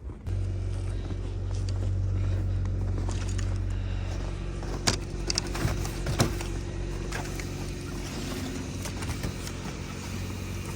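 Car engine idling with a steady low hum that comes in suddenly just after the start, with a few sharp clicks and knocks around the middle.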